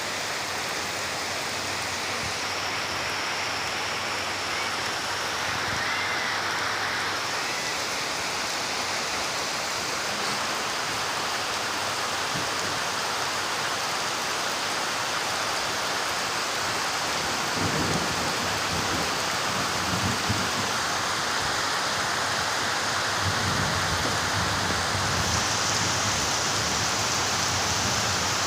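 Steady rain falling, with low rumbles coming and going about two-thirds of the way through and again near the end.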